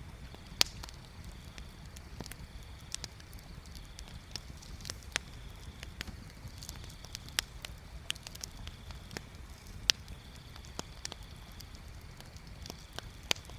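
Bonfire crackling: irregular sharp pops and snaps of burning wood, a few much louder than the rest, over a low steady rumble.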